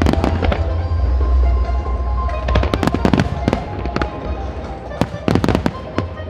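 Aerial fireworks shells bursting in rapid clusters of bangs, a flurry near the start, another around the middle and more near the end, with music playing underneath.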